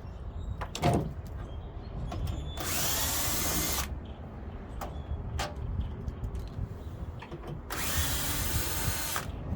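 Power drill-driver backing out two screws from a front-load washer, in two runs of about a second each, about five seconds apart, with a few clicks and knocks of handling between them.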